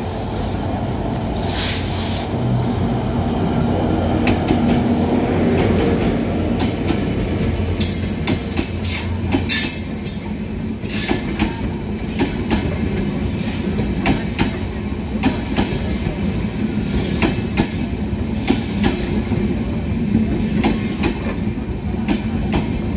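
A diesel locomotive hauling a passenger train passes close by, its engine running with a steady low hum. The coaches then roll past with a long run of irregular wheel clicks over the rail joints.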